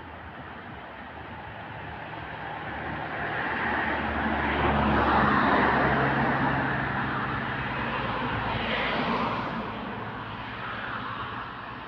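A vehicle passing by: a rushing noise that swells to a peak about halfway through and fades away, with a low engine hum underneath.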